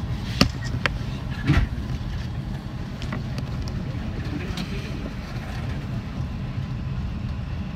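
JR West 323 series electric train running, heard inside the car: a steady low rumble of wheels on rails. Three sharp knocks come in the first two seconds, the loudest about a second and a half in.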